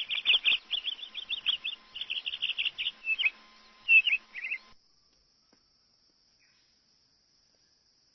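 A bird calling: quick runs of short high chirps, about six or seven a second, broken into bursts, with a few longer twisting notes near the end. The calls stop about five seconds in.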